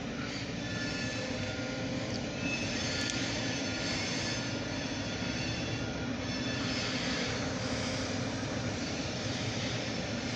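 Short diesel-hauled freight train of grain hopper cars rolling past with a steady low rumble. Thin high-pitched tones come and go above it throughout.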